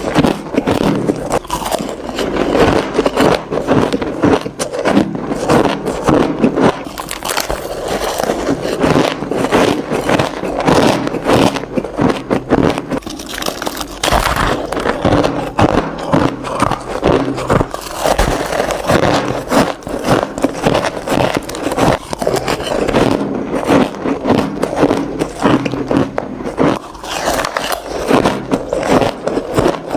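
Close-miked crunching of crushed ice being bitten and chewed, a dense run of sharp, crackly crunches.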